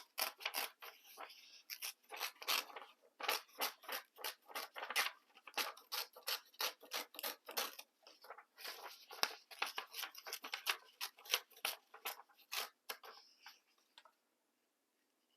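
A strip of paper being handled, torn and crackled, with quick irregular crackles that stop near the end.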